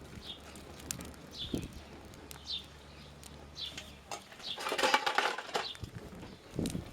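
A small bird chirping short, high, falling notes about once a second, over scattered sharp crackles from a burning twig stove. A low hum stops about four seconds in, and a brief rush of noise comes around five seconds in.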